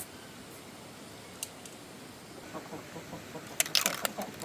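A quiet stretch with one small click, then a quick cluster of sharp clicks and clatters near the end.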